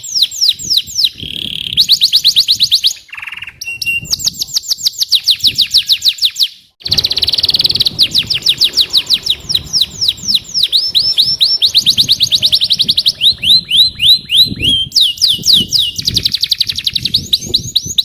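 Domestic canary singing: fast trills of high, rapidly repeated downward-sweeping notes, switching from one trill to another every few seconds, with a brief break about seven seconds in.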